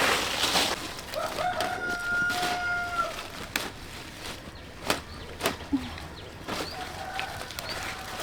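A rooster crowing, one long call of about two seconds starting about a second in, with a fainter crow near the end. Short clicks and rustles of hands working among the vegetable plants.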